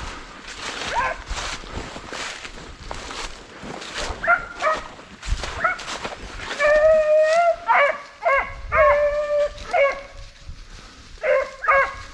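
A pack of deer hounds baying while running a deer: scattered short yelps at first, then drawn-out howling bawls from several dogs coming thick in the second half.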